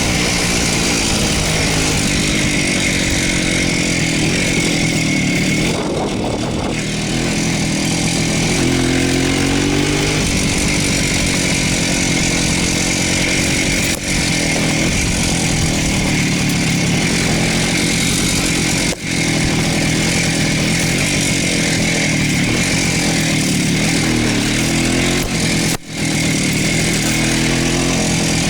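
Voskhod motorcycle's single-cylinder two-stroke engine running under way, its note rising and falling with the throttle. Three short dips in level come partway through.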